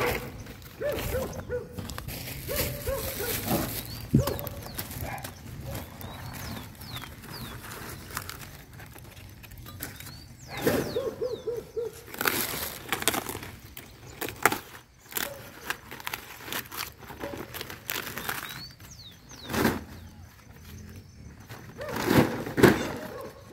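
A bird calling in several runs of short, slightly falling hooting notes, with faint high chirps of small birds and intermittent rustling and handling noises.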